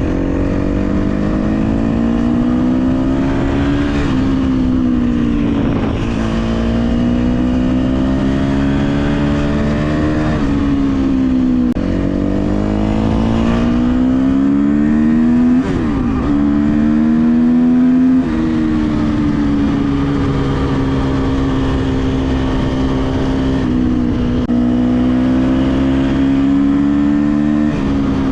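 KTM 250 SX-F motocross bike's single-cylinder four-stroke engine running under throttle, its pitch climbing steadily and then dropping back sharply about half a dozen times, as with gear changes or easing off the throttle.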